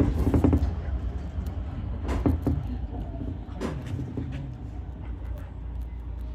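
Ichibata Electric Railway 7000-series electric train: a steady low rumble with a few sharp clicks or knocks, spaced roughly a second and a half apart.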